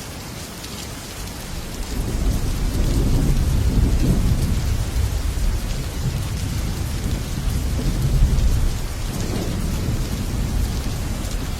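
Heavy rain falling on a metal roof, with a long low roll of thunder that builds about two seconds in, swells again a little past the middle and then eases.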